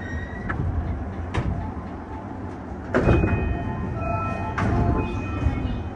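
An E235-series commuter train standing at a platform, with a steady low rumble and a few sharp clicks. About three seconds in there is a loud sudden burst of door or air noise. It is followed by an electronic chime of several steady tones that stops and starts for a couple of seconds.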